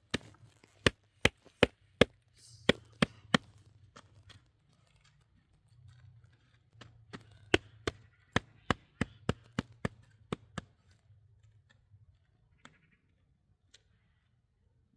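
A series of sharp chopping or hacking strikes, a tool hitting a hard surface: one run of about eight blows, a pause, then a second run of about ten, roughly three a second.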